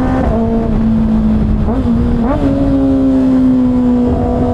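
Kawasaki ZX-6R inline-four engine running at a steady freeway cruise over a low rush of wind noise. Its pitch dips slightly near the start, then climbs back in two short rises around the middle as the throttle changes.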